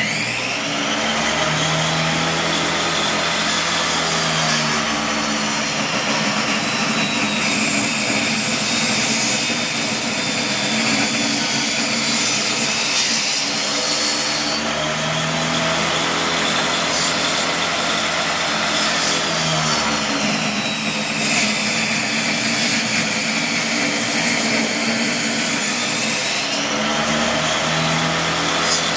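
Table saw running and ripping a 2x6 into narrow strips. Its motor hum is loud and steady, and its pitch sags and recovers a few times as the board is fed through the blade.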